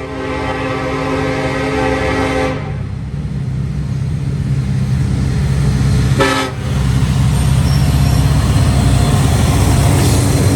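Freight train's lead diesel locomotive sounding its horn: one long blast of about two and a half seconds, then a short toot about six seconds in, over the steady rumble of the locomotives and train passing.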